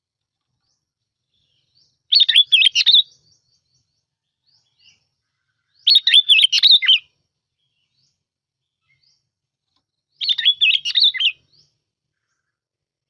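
Bulbul (bông lau) song played as a lure recording: three short phrases of quick warbling notes, each about a second long, coming about four seconds apart with silence between.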